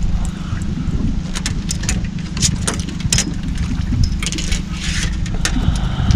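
Boat motor running steadily, with wind on the microphone and a run of sharp clicks and knocks through the middle.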